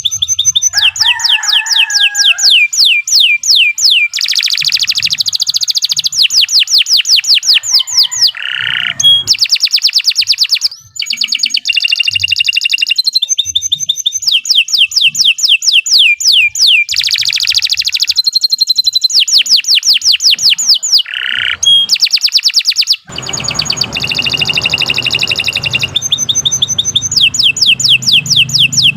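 Domestic canary singing a long, loud song of rapid trills and rolls, each phrase a fast run of repeated notes that changes to a new pattern every second or two.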